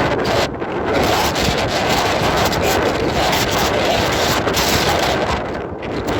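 Gale-force wind buffeting the microphone: loud, rumbling gusty noise with constant irregular thumps and crackles, easing slightly near the end.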